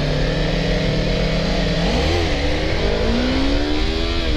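Motorcycle engine running under way, holding a steady pitch, then a quick blip of the throttle about two seconds in, followed by a rising pitch as the bike accelerates that drops off near the end.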